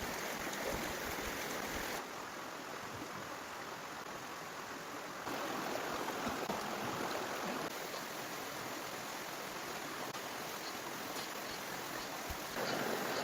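Steady rushing of water, an even hiss with a few faint clicks. Its level drops abruptly about two seconds in and rises again around five seconds and near the end.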